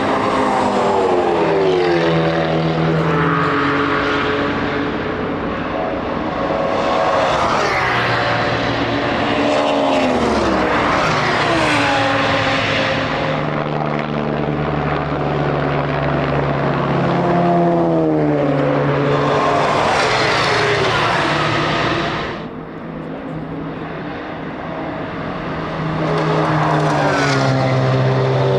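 A string of race cars passing at speed one after another, each engine note falling in pitch as it goes by. There is a short lull about three-quarters of the way through.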